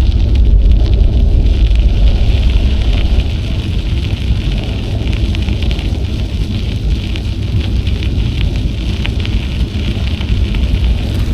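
Wind buffeting the action camera's microphone while cycling: a steady low rumble, with a crackle of bicycle tyres rolling over the trail surface. It is a little louder in the first few seconds.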